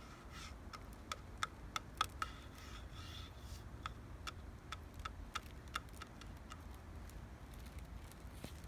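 Bamboo stems knocking together in the wind: irregular sharp clicks, two or three a second at first and thinning out after about six seconds, over a patch of leaf rustle and a steady low wind rumble.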